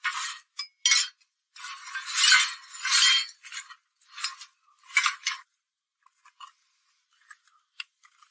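Short bursts of scraping, the longest and loudest about two to three seconds in, then a few light clicks and clinks like small metal parts being handled. Only the high end of the sound is present: the low tones have been filtered out.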